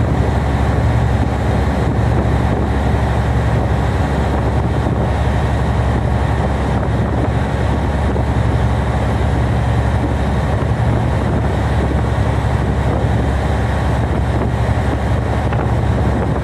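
Tugboat's diesel engine running at a steady, low drone, with strong wind blowing over the microphone.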